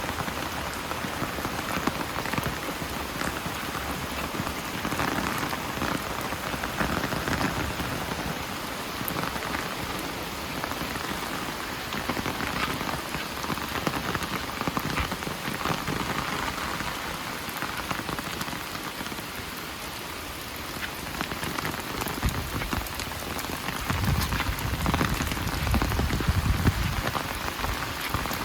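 Steady rain falling, a dense even patter of drops. A low rumble swells near the end.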